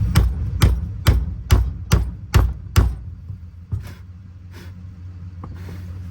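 Hammer striking a tool set against a Ford fuel pump module's tight lock ring to knock it loose: about seven sharp metallic blows, roughly two a second, then a few fainter knocks. A steady low hum runs underneath.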